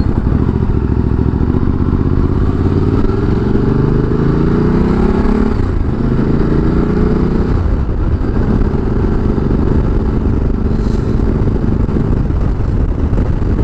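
Ducati Multistrada 1200S L-twin engine accelerating up through the gears. The pitch rises for about four seconds, drops at a gear change, and rises again. From about eight seconds in it holds steady at a cruise.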